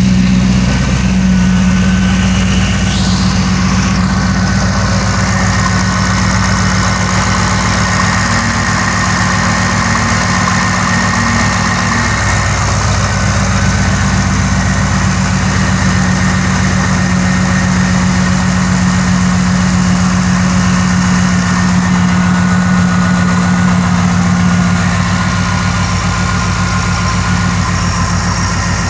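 Lingenfelter-built 2003 Chevrolet Corvette C5's V8 idling steadily during a cold start, the engine still warming up after sitting for four to five days.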